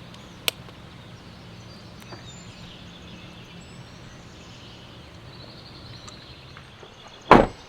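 Steady outdoor background noise with faint bird calls. There are two sharp clicks in the first half second and one loud short knock near the end.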